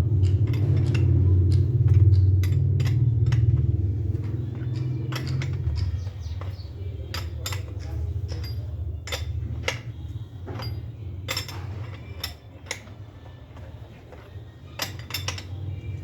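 Metal tools and bicycle parts clinking and tapping against each other in irregular sharp clicks, over a low rumble that fades out about six seconds in.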